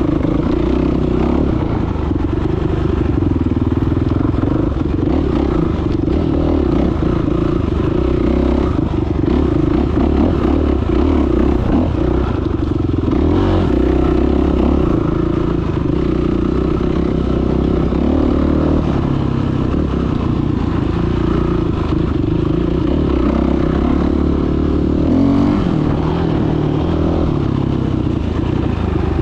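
Dirt bike engine running continuously while riding, its pitch rising and falling with the throttle.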